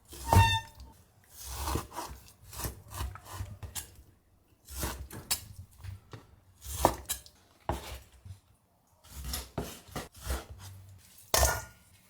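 Kitchen food-prep handling: irregular knocks and scrapes on a wooden cutting board, with a ringing clink of a dish about half a second in.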